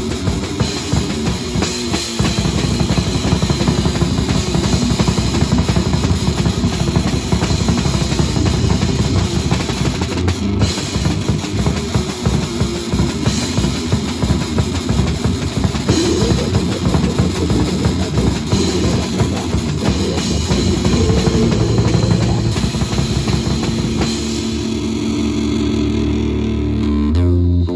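Live rock band playing loud and fast, a drum kit hitting rapidly with bass drum and cymbals under a dense wall of guitar and bass. About 24 seconds in the drumming stops and held low guitar and bass notes ring out at the end of the song.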